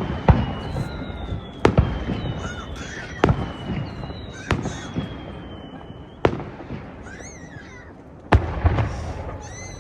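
Aerial fireworks shells bursting: a string of sharp, loud bangs about every one and a half seconds, with thin, slightly falling whistling tones between them.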